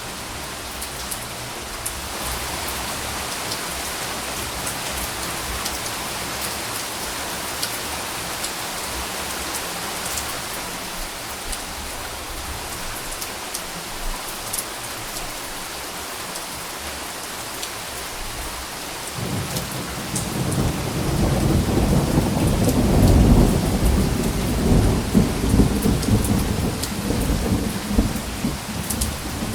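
Steady rain falling, with scattered drops ticking. About two-thirds of the way through, a long, deep rumble of thunder rolls in and swells to be the loudest sound.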